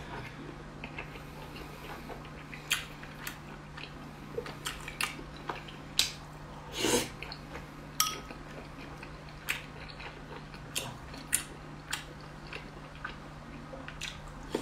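Close-miked mouth sounds of eating soft red-braised pork belly: wet chewing and lip smacks with short sharp clicks at irregular intervals, and one longer wet sound about seven seconds in. A faint steady hum sits underneath.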